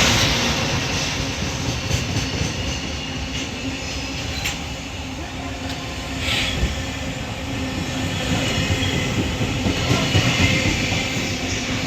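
Container freight train of Koki flat wagons rolling through a station at speed, a continuous rumble with a steady low hum and occasional clicks of wheels over rail joints, plus a brief high screech about six seconds in.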